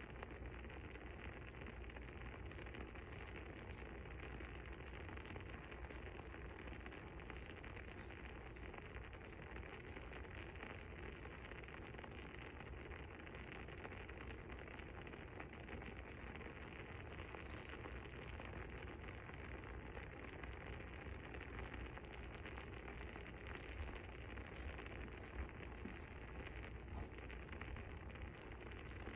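Faint, steady crackling of burning wood: many small irregular pops and ticks over a low hiss, with one slightly louder pop near the end.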